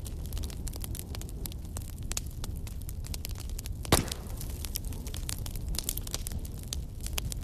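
Wood fire crackling in a fireplace, with frequent small snaps and one loud pop about four seconds in, over a steady low rumble of snowstorm wind.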